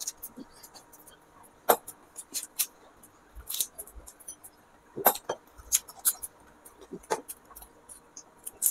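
Two people chewing and biting into samosas, close up: irregular crisp crunches and wet mouth clicks.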